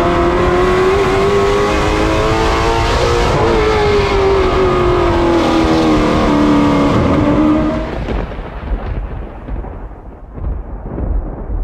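Race car engine running at high revs, its pitch drifting slightly up and then slowly down. About eight seconds in it drops away to a duller, quieter rumble that fades.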